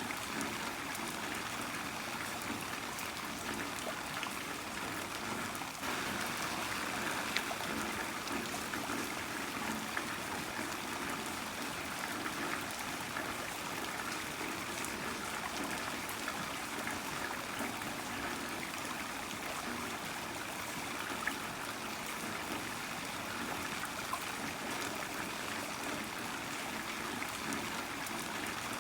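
Heavy rain falling steadily, an even hiss with a few sharp drop ticks; it steps up slightly about six seconds in.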